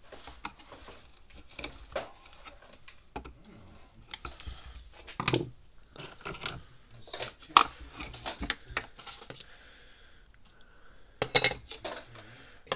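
Irregular clicks, knocks and light clatter of a solar electric fence charger's housing and parts being handled and pried apart by hand to get at its battery, with a few louder knocks about five, seven and eleven seconds in.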